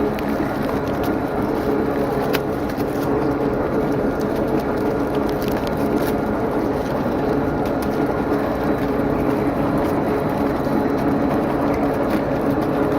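Automatic extruding and packing machine running steadily: a continuous motor hum with a few faint clicks.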